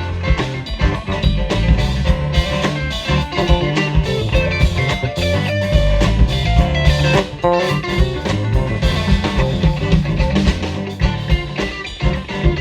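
Live band playing an instrumental break: a guitar carries the melody over bass and drums, with no singing.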